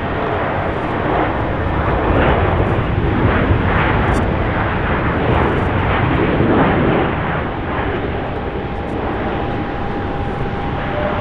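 Airbus A320neo's twin jet engines: a jet airliner passing, its roar loudest from about two to seven seconds in, then easing to a steadier rumble with a faint high whine.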